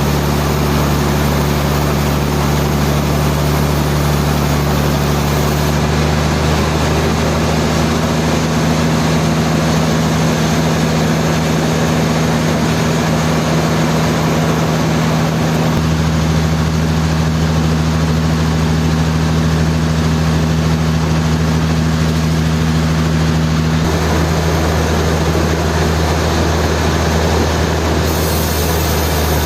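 Sawmill machinery running with a steady low hum over a noisy haze; its tone shifts abruptly a few times.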